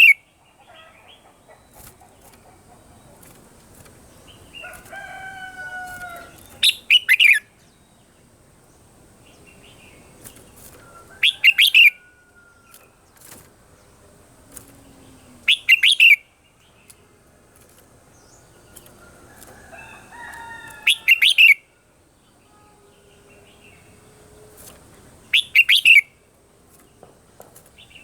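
Red-whiskered bulbul singing short, loud phrases, five of them about four to five seconds apart. Fainter gliding calls from another bird come between them.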